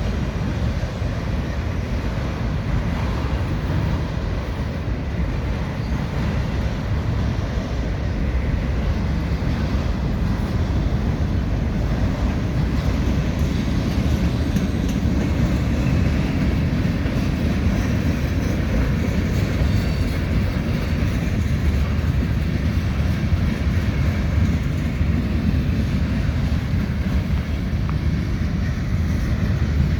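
Heavy Norfolk Southern freight train rolling past: a steady low rumble of wheels on rail.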